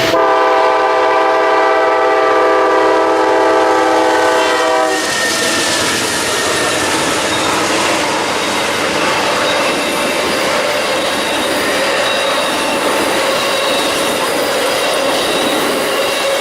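Locomotive air horn sounding one long chord of several notes for about five seconds, then stopping, followed by the steady noise of the train's wheels on the rails as it passes close by.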